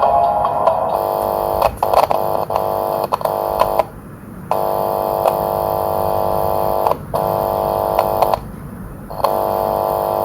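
Harsh electronic buzzing tone from a homemade audio signal tracer probing a TV's sound circuit. It cuts in and out with clicks as the probe makes and breaks contact, dropping out twice for under a second. The tone shows that audio signal is reaching the points being probed.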